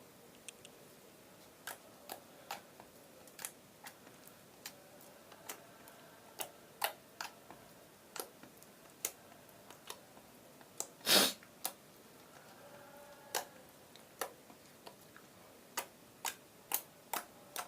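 Slime being squeezed and worked by hand, giving irregular sharp wet clicks and pops, roughly one or two a second, with one louder pop about eleven seconds in.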